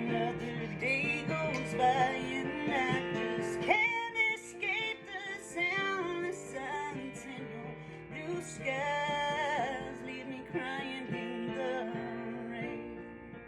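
A woman singing a melody over guitar accompaniment.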